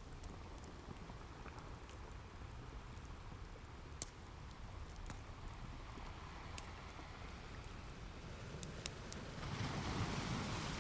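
Ocean waves washing in over a steady low rumble, with scattered sharp pops and crackles from a wood fire; a wave swells up louder near the end.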